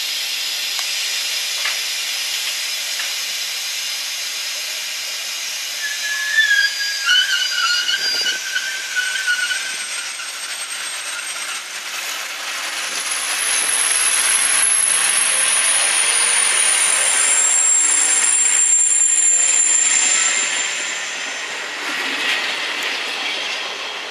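Regional electric multiple unit rolling past on the rails with steady wheel and track noise. Its wheels squeal in wavering tones a few seconds in, then in a thin, very high squeal for several seconds as the cars go by.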